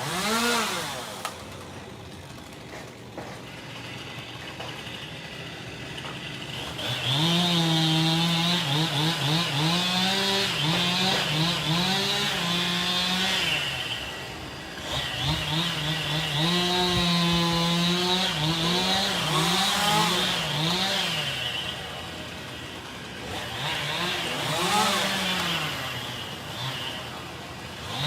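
Two-stroke chainsaw revving and cutting: held at full throttle for two long stretches of several seconds, with quick throttle blips between them and dips to a lower speed.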